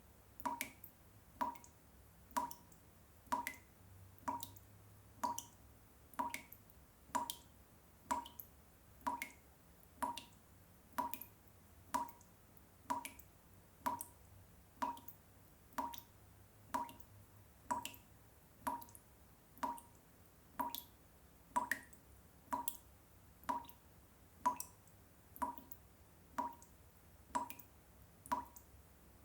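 Water dripping drop by drop in an even rhythm, a little under two drops a second, each drop a short plink.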